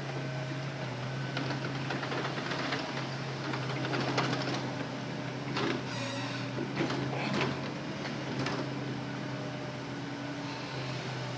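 Hitachi Zaxis excavator's diesel engine running at a steady drone. Scattered knocks and clatter come over it in the middle of the stretch as the machine works.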